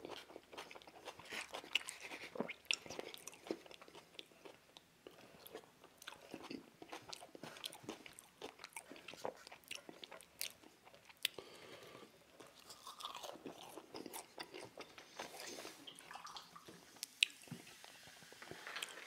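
Close-miked mouth sounds of a person chewing food: soft, irregular wet clicks and smacks.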